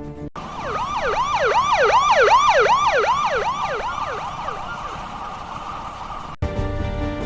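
Emergency vehicle siren in a fast yelp, its pitch sweeping up and down about two and a half times a second. It fades and cuts off abruptly near the end.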